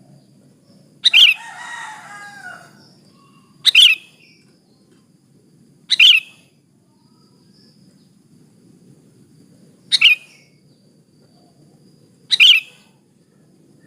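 Sooty-headed bulbul (kutilang) giving short, sharp calls, five in all, two to four seconds apart, with a brief softer warble after the first: a female's call to a male.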